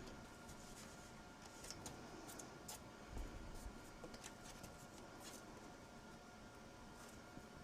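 Faint handling of paper and adhesive tape: a scattering of small, sharp clicks and light rustles over a low steady hum.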